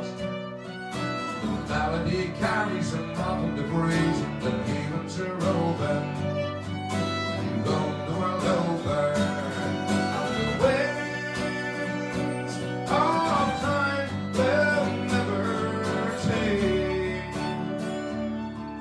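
Live folk music: a fiddle playing the melody over guitar accompaniment.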